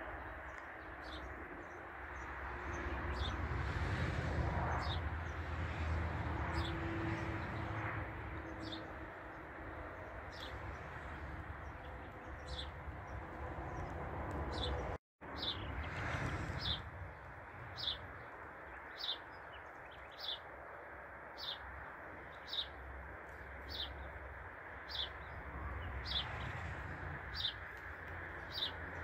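A small bird chirping over and over, short high notes a little more than one a second, over a steady low background rumble. The sound cuts out for a moment about halfway through.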